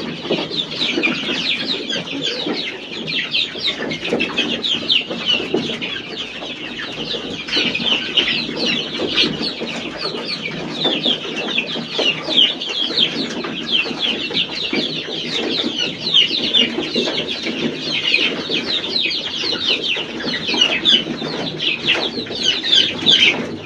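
A brood of chicks peeping without pause, many short falling cheeps overlapping, with a hen clucking low beneath them.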